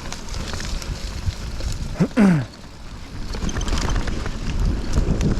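Mountain bike riding down a trail: wind buffeting the microphone, with the rumble of tyres over dirt and scattered rattles and clicks from the bike. About two seconds in, a rider gives a short exclamation that falls in pitch, the loudest sound.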